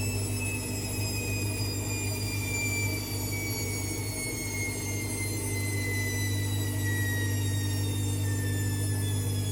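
AEG Lavamat Exclusiv 6469AFL washing machine running, its motor whine falling slowly and steadily in pitch as the drum slows, over a steady low hum.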